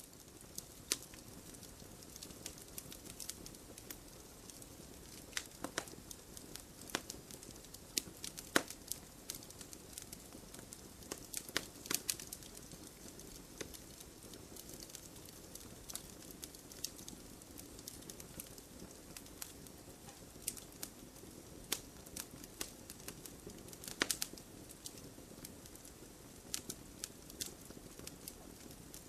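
Wood campfire crackling: irregular snaps and pops of burning wood over a steady low sound of the flames, with a few louder pops.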